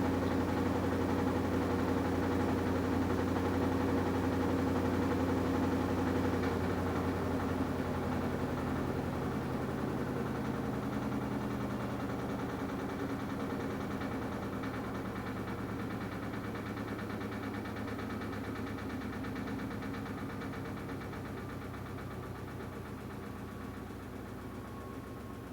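AQUA washing machine with a direct-drive inverter motor spinning the drum, a steady hum and drone that, about a quarter of the way in, begins to slow and fade gradually, with a faint whine sliding down in pitch near the end.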